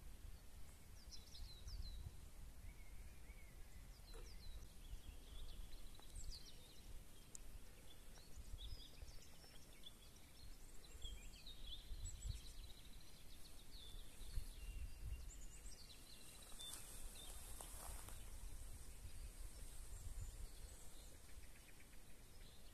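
Small birds chirping and calling, many short high chirps scattered throughout, over a gusty low rumble of wind on the microphone.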